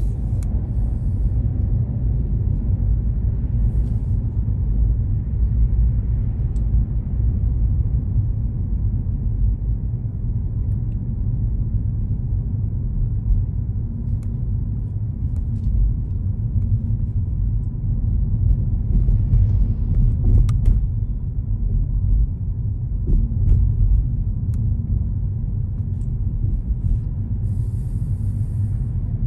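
A car driving, its engine and tyre noise making a steady low rumble.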